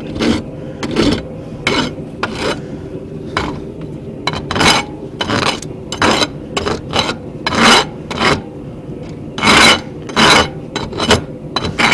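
Farrier's rasp filing hot steel in repeated push strokes, about one stroke a second at an uneven pace, shaping the corners and taking burrs off a forged angle-iron feather.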